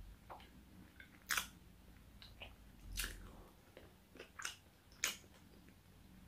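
A person chewing a mouthful of roast chicken dinner: irregular wet mouth clicks and soft crunches, the loudest about a second and a half and five seconds in.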